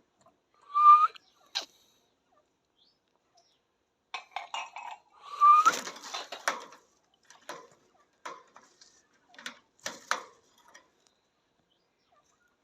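Quaker parrot giving two short rising calls, about a second in and again some five seconds later, with scattered sharp clicks in between and after.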